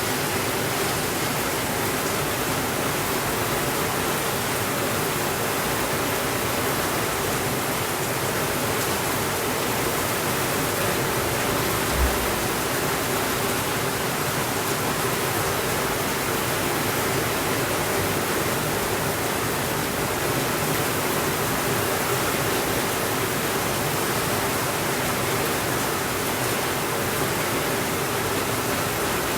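Steady heavy rainfall, an even hiss with no pauses or swells. About twelve seconds in there is a single soft, low thump.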